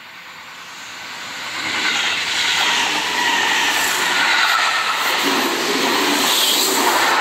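Seibu Railway electric commuter train approaching and passing close by, its wheels running on the rails. The running noise grows louder over about the first two seconds, then stays loud and steady as the cars go past.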